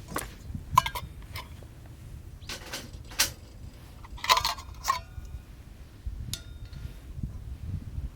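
Metal camping gear being handled: a series of sharp clinks and knocks, some with a short metallic ring. The loudest come about a second in and again around three to five seconds in, over a steady low rumble.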